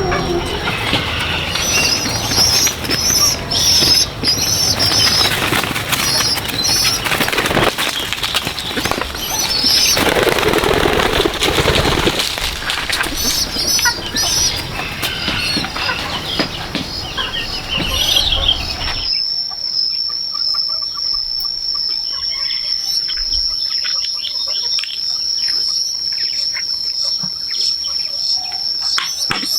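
Birds chirping, with a flurry of wing-flapping and dense rustling noise. About two-thirds of the way in the sound changes abruptly to a steady high insect drone with scattered bird chirps.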